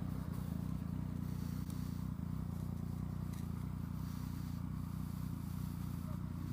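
Motorcycle engine running steadily, a low, even rumble that holds level.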